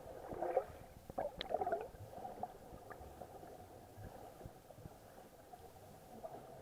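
Muffled water gurgling in two short bursts, about half a second and a second and a half in, with a few sharp clicks. A low, muffled background follows.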